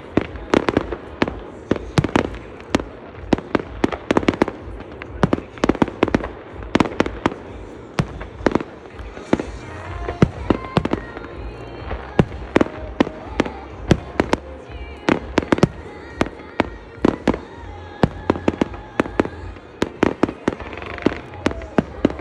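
Fireworks bursting in rapid succession, a dense string of sharp bangs, several a second.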